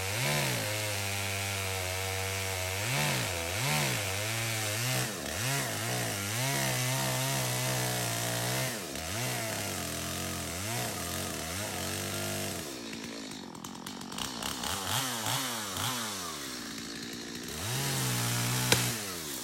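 Stihl MS250 two-stroke chainsaw running, its engine speed rising and falling over and over as the throttle is worked. It goes quieter for a few seconds past the middle, then runs steadily again near the end.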